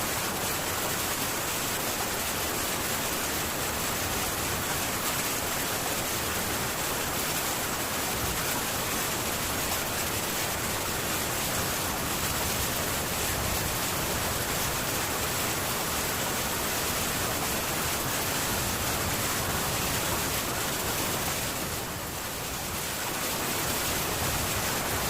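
Heavy rain falling on a metal tin roof, a steady, dense hiss with no thunder; the level dips slightly for a moment near the end.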